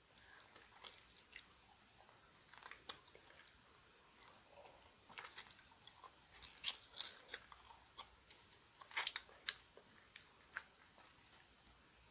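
Chewing bone-in chicken feet: short wet mouth clicks and smacks that come in clusters, busiest and loudest a little past halfway through.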